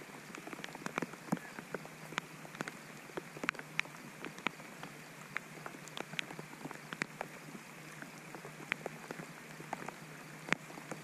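Steady rain falling on lake water, with many sharp, irregular taps of single drops.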